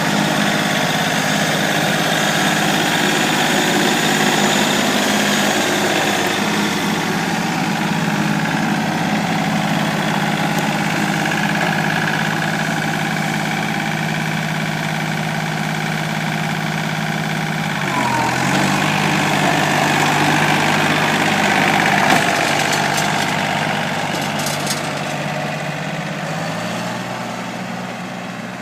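Tractor engine running steadily at low revs. Its pitch dips briefly about two-thirds of the way through, steps up near the end, and the sound grows somewhat fainter towards the close.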